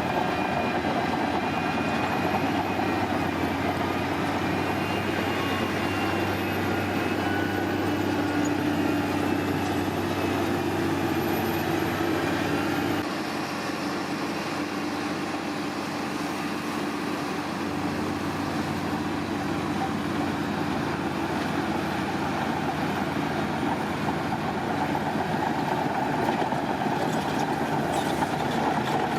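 Heavy construction machinery's diesel engine running steadily, easing off slightly about halfway through.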